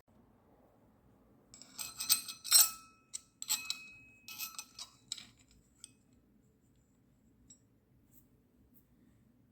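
Small metal objects clinking and rattling together for about three and a half seconds, with short bright metallic rings, followed by a few isolated light ticks.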